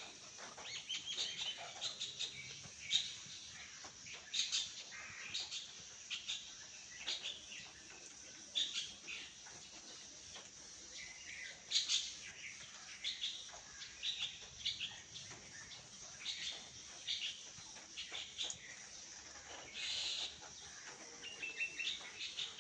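Mynas calling: a continual run of short chirps and whistles, one after another, over a steady high-pitched hiss.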